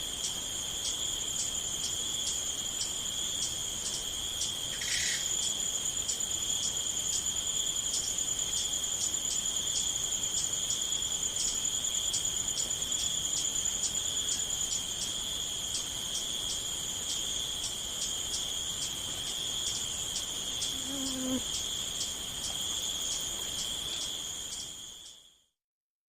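Crickets chirping in a steady high-pitched trill with a fast, even pulse. A faint brief chirp comes about five seconds in and a soft low sound around twenty-one seconds. The trill fades out near the end.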